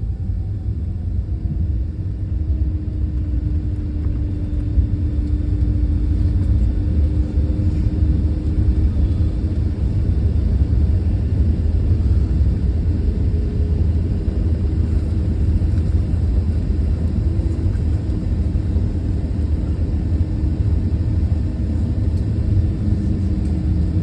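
Cabin noise inside a Boeing 757-200 rolling on the ground after landing: a steady deep rumble from the wheels and airframe, with a faint steady engine hum.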